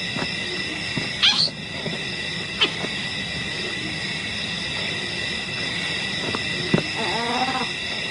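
Wild animal sounds: a steady, high, many-toned chorus, with a few short calls about a second in and once more a little later, and a brief wavering cry near the end.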